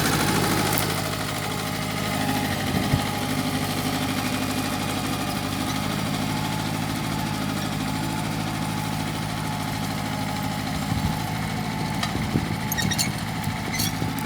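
Mitsubishi compact tractor engine running steadily, a little louder for the first second before settling, with a few light clicks near the end.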